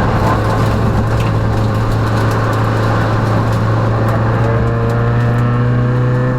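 Peugeot rally car's engine heard from inside the cabin, running steadily under load, then rising in pitch from about four seconds in as the car accelerates.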